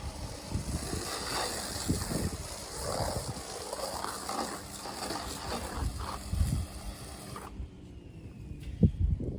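Pressure washer spraying a foam cannon onto siding: a steady hiss of spray that cuts off about seven and a half seconds in. A sharp knock follows near the end.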